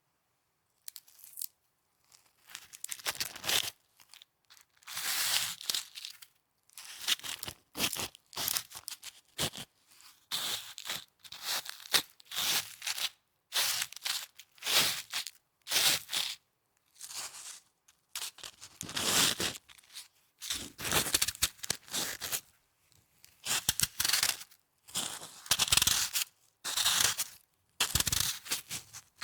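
Snow being squeezed and crunched close to the microphone, in a long run of separate short crunches with brief pauses between them.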